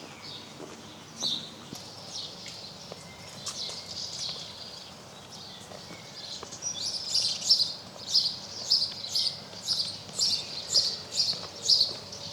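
Songbirds singing, with scattered high chirps; about halfway through, one bird starts a loud run of short repeated notes, about two or three a second.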